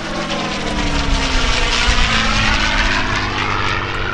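P-51D Mustang's Packard Merlin V-12 engine on a low fly-by, its propeller noise swelling to a peak about halfway through. The engine's pitch slides down as it passes.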